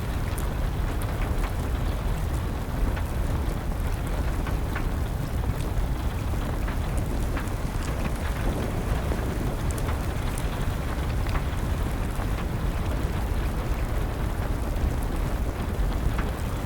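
Wood fire crackling with rain falling: a steady rush of rain, heaviest in the low end, under scattered small pops and crackles.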